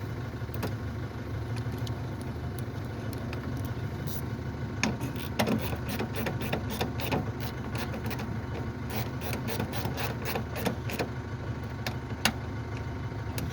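An engine idling steadily under a run of short clicks and taps, thickest in the middle of the stretch, as car parts are pushed and fitted by hand.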